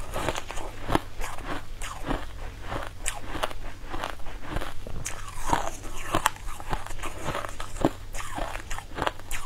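Close-miked chewing of a crunchy food, with many crisp crunches coming several times a second in an irregular rhythm.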